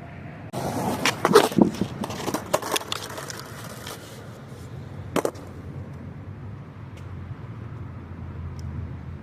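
Skateboard wheels rolling on concrete, then a run of sharp clacks and slaps of the board between about one and four seconds in, and one more clack about five seconds in.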